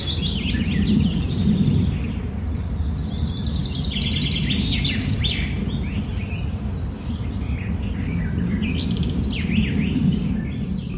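Birds chirping and calling in short, scattered phrases over a steady low rumble.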